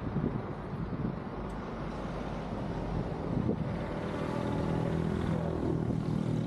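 Car engine and tyre noise heard from inside a moving car. About halfway through, a steady engine hum rises above the rumble.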